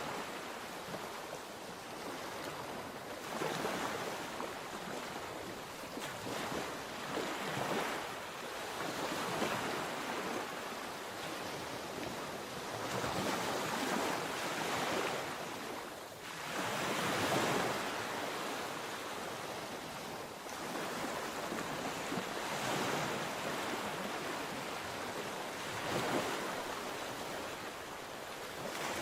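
Sea waves breaking and washing onto the shore in repeated surges every few seconds, each swelling and fading away, with one stronger break a little past the middle. A light hiss of wind on the microphone runs under it.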